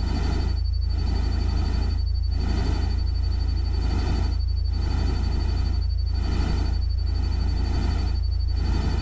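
Steady deep rumble under a hiss that swells and fades in even pulses about every second and a half, with a thin, steady high tone above.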